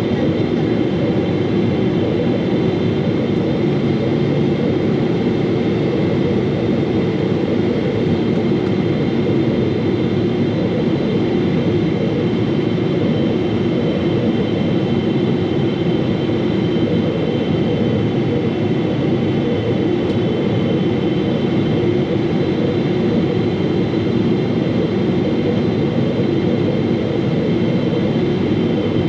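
Steady jet engine and airflow noise heard inside the cabin of a Boeing 777-300, with a few steady high whining tones above it.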